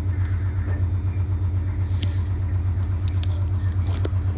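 Steady low hum inside an electric train car, with a few faint sharp clicks about two to four seconds in.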